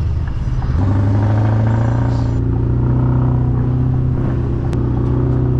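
Straight-piped V8 diesel engine of a Scania R500 truck running under way, a deep steady drone; its pitch steps up about a second in and then holds, rising slightly.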